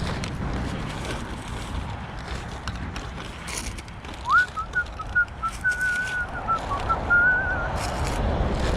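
A person whistling a short wavering tune for a few seconds, starting about four seconds in, over a steady low rumble of road traffic and scattered rustles and clicks.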